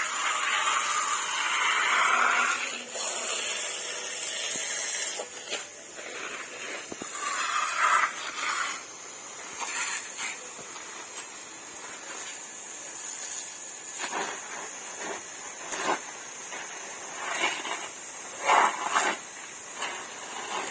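Narrow, high-pressure jet of water from a hose spray nozzle hissing and spattering against a banana leaf for about five seconds. It then drops to quieter scattered splashes and patters.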